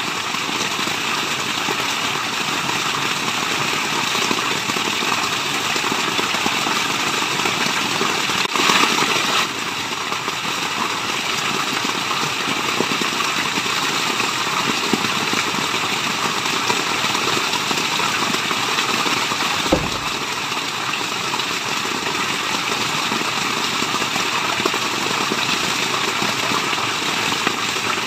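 Steady rushing of a waterfall, with a brief louder surge about nine seconds in and a single low thump near twenty seconds.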